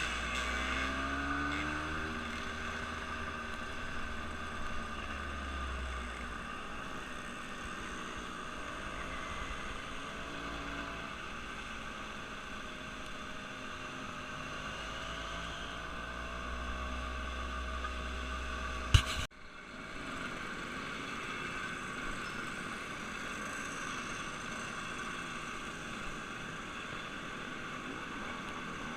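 An engine running steadily with a low rumble that swells and fades, broken by a sharp click and a brief drop about two-thirds of the way through.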